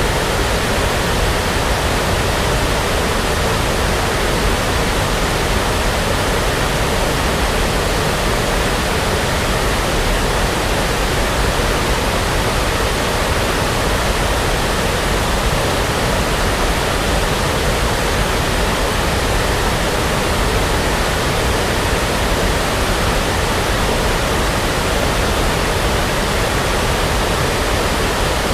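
Continuous brown noise: a steady, even rushing hiss that never changes.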